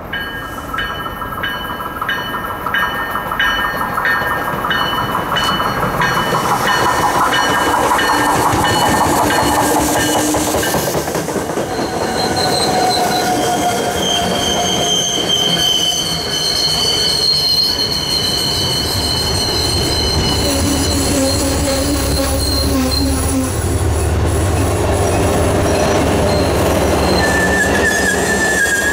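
MBTA commuter rail train passing close by at speed: wheels rumbling and clacking over the rails, with high-pitched wheel squeal through the middle and later part. A low diesel engine drone builds near the end as the locomotive pushing at the rear goes by. A regular high ringing is heard in the first several seconds.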